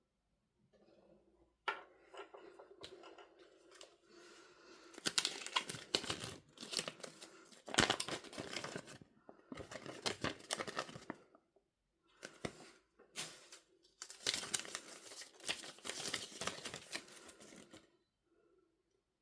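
Packaging being torn open and crinkled by hand, in crackly bursts with short pauses between them. It begins sharply about two seconds in and stops about a second before the end.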